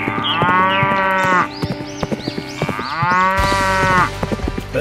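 A cow mooing twice, each call about a second long, rising and then falling in pitch.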